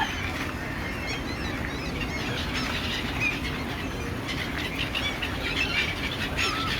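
Many birds chirping and calling at once, short overlapping calls, over a steady low background rumble.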